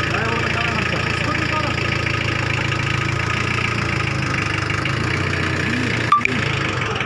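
Tractor engine running steadily at idle, with a brief click about six seconds in.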